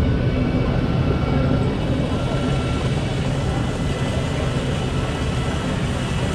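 Steady low din of a large, busy exhibition hall, with no single sound standing out.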